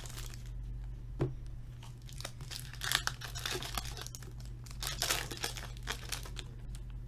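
Hockey card pack wrappers being torn open and crinkled by hand in several rustling bursts, with a short knock a little over a second in. A steady low electrical hum runs underneath.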